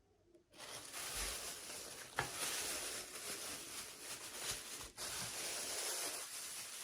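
Toy packaging being opened: a continuous rustling and tearing that starts about half a second in, with a short break about five seconds in.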